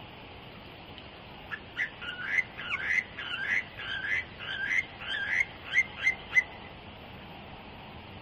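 A songbird singing a run of looping, slurred whistled notes, about three a second, starting about a second and a half in and stopping near six and a half seconds, over a steady hiss.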